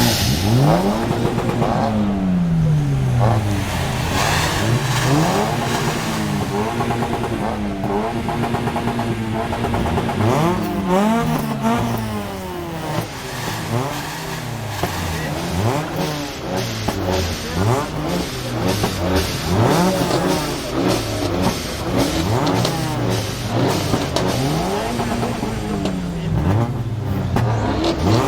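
Brabus-modified Mercedes-AMG GLE43's twin-turbo V6 revved over and over in short blips, the engine pitch rising and falling every second or two. From about halfway through, exhaust crackles and pops sound between the revs.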